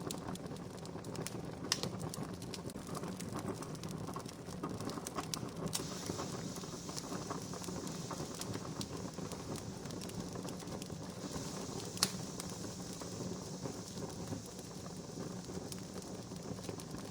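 Wood campfire burning, with steady crackling and scattered pops, two of them sharper, about two seconds in and near twelve seconds.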